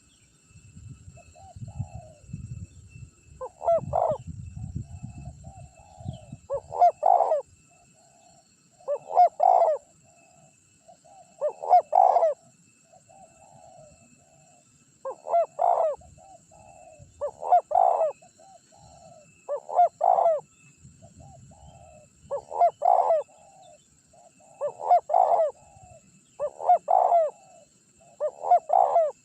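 Spotted dove cooing over and over: a loud phrase of coos every two to three seconds, with softer coos between them. A low rumble sits under the first few seconds.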